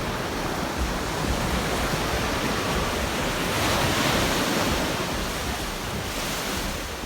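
Rough sea surf washing onto a beach, a steady rush of water that swells to its loudest about halfway through as a wave breaks, with wind rumbling on the microphone.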